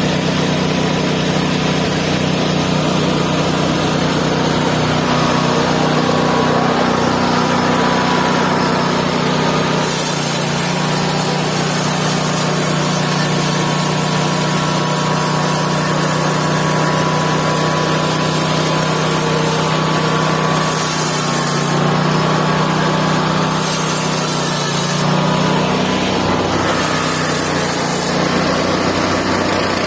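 Mobile band sawmill's engine running steadily. A high hiss comes and goes several times from about a third of the way in.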